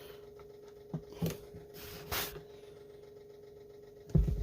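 Faint bench handling sounds, a few light clicks and rustles, as a fuel line is pushed back onto a STIHL 026 chainsaw's carburetor, over a steady low hum. A louder knock comes near the end.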